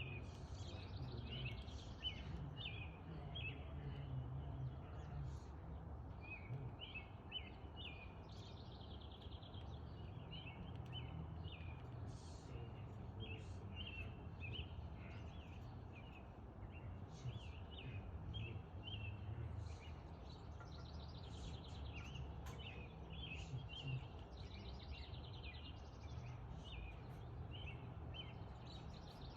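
Small birds chirping in quick, short repeated notes over a steady low background rumble.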